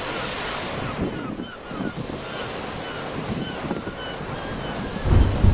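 Sea waves washing onto the shore, with wind on the microphone; a louder low rumble of wind buffeting the microphone comes near the end. A few faint, short high chirps sound in the middle.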